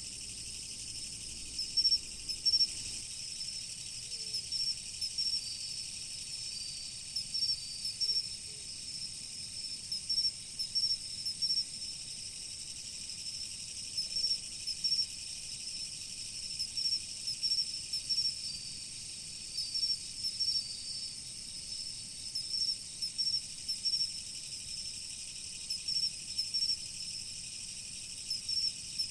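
Chorus of autumn crickets: a steady high trill with repeated bursts of chirping every second or two.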